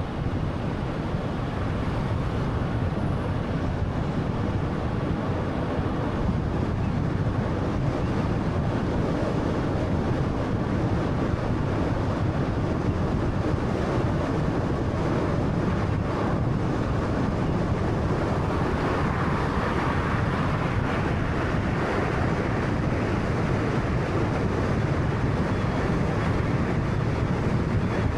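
Steady road noise of a 2013 Honda Fit on the move: tyre rumble and wind noise, swelling slightly about two-thirds of the way through.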